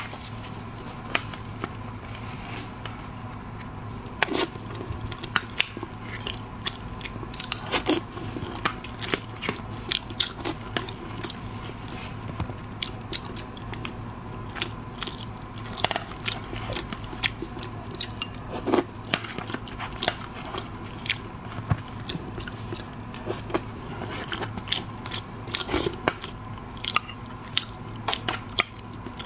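A person eating seafood close to the microphone: many sharp crunchy bites, crackles and wet chewing, over a faint steady hum.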